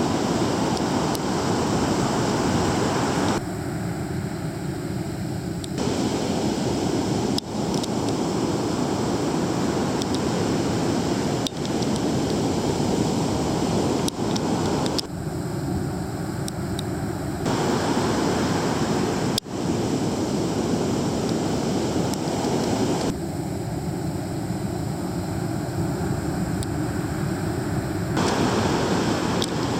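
Ocean surf from typhoon swell breaking and washing ashore as a steady rush, with wind buffeting the microphone. The sound changes abruptly several times.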